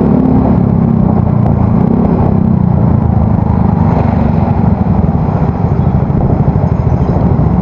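Yamaha Mio Soul GT scooter's single-cylinder engine running through an aftermarket exhaust under way, a steady, deep exhaust note.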